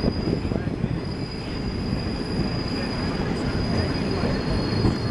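A train rolling on the track, heard from on board, with a dense rumble and a steady high-pitched wheel squeal over it that drops slightly in pitch near the end.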